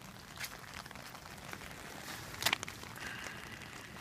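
Steady rain pattering, with scattered small ticks of drops and a louder, sharp rustle of handling noise about two and a half seconds in.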